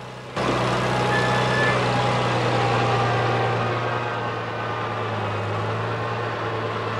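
Vehicle engine running steadily with a constant low hum, cutting in suddenly about half a second in.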